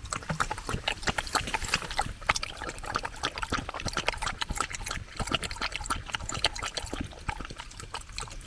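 Beagle eating breakfast from his bowl: rapid, irregular wet chewing and slurping of kibble mixed with freeze-dried food.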